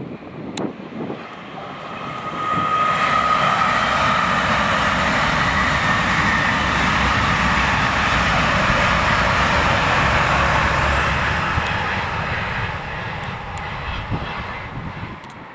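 Great Western Railway Class 800-series Intercity Express Train passing: a steady rumble of wheels on rail with a high whine over it. It swells about two seconds in, holds, then fades away over the last few seconds.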